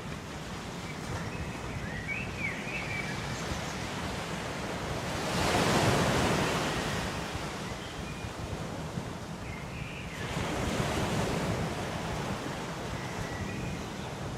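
Ocean waves washing ashore, with two louder swells breaking about a third of the way in and again past the middle. A few faint short chirps sound over the surf.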